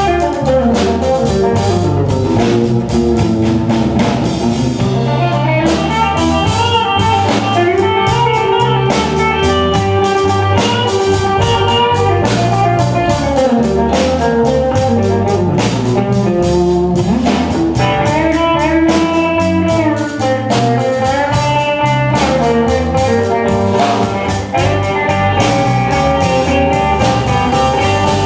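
Live band playing a blues-style instrumental passage: a guitar line with bending notes over drums.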